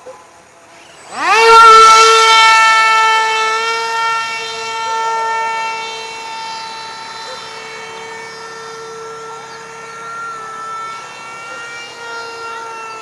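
A small high-speed electric motor starts about a second in, spins up with a quickly rising whine, then runs at a steady pitch. It is loudest just after spin-up and settles quieter within a few seconds.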